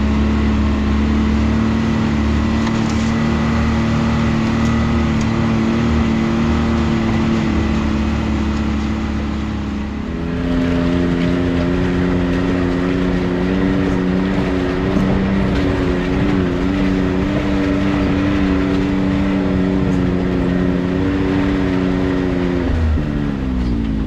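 Can-Am Maverick X3 side-by-side's turbocharged three-cylinder engine running at a steady speed. It shifts to a new steady pitch about ten seconds in, then drops in pitch near the end as the machine slows.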